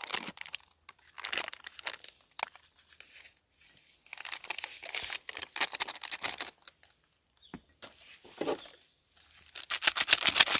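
Crinkly plastic food wrappers being handled and torn open, in irregular spells of crackling rustle with short pauses between them.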